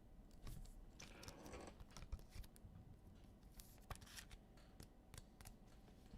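Faint rustling and scattered light clicks of trading cards and pack wrappers being handled, with a brief longer rustle about a second in.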